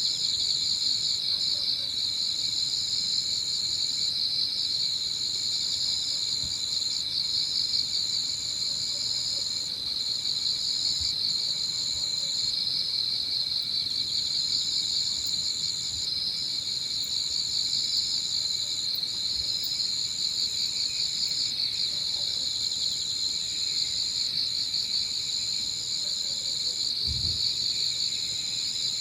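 Chorus of autumn insects singing: a dense, steady high-pitched trill, with a second, higher trill that stops briefly every second or two.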